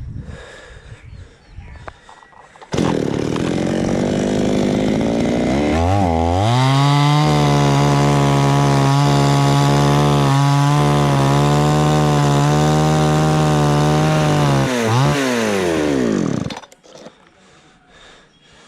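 Chainsaw coming in suddenly about three seconds in, revving up to a steady high pitch with a couple of brief dips, then winding down and cutting off near the end.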